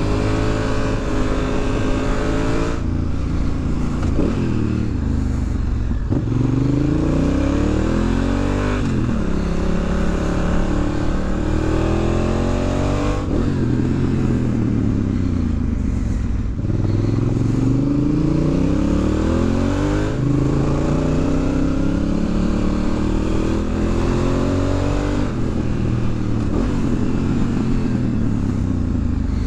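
The 998 cc parallel-twin engine of a 2019 Honda Africa Twin motorcycle being ridden hard. The engine note repeatedly climbs as it accelerates, then drops back with gear changes and off-throttle into bends.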